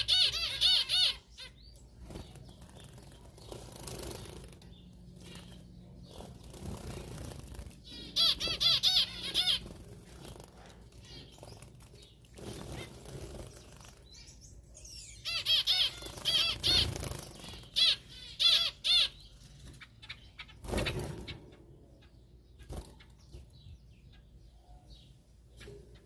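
Exotic cage birds bathing: wings fluttering and flapping, with three bursts of rapid, warbling chirps and a short loud flutter about three quarters of the way in.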